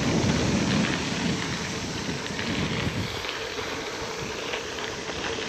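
A loud cicada chorus, a dense steady drone. Wind buffets the microphone for the first few seconds, then eases.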